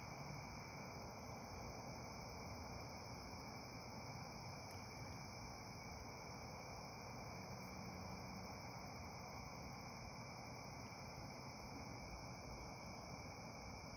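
Crickets chirring steadily in a continuous chorus over a faint low hiss, with a couple of faint crackles from the bonfire.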